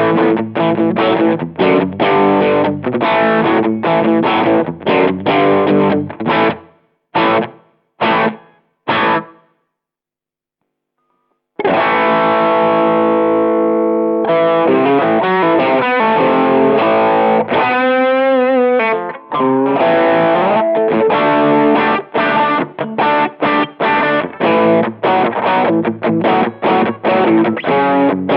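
Electric guitar through a Behringer Vintage Overdrive TO100, a Tube Screamer-style overdrive pedal, playing a fast overdriven riff. It ends in three short stabbed chords, then falls silent for about two seconds. A held chord rings out next, with a wavering vibrato bend partway through, and then the fast riffing starts again.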